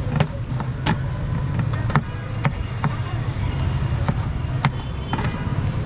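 Irregular sharp knocks and taps, about one or two a second, over a steady low hum of street noise.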